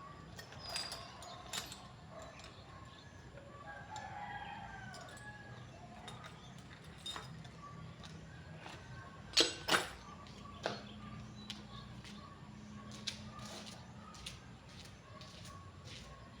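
Chickens clucking with a rooster crowing about four seconds in, over scattered clicks and knocks, the two loudest knocks close together about nine and a half seconds in.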